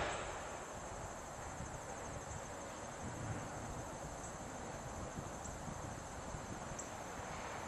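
Steady high-pitched trilling of insects, a cricket-like chorus, over a faint low background rumble.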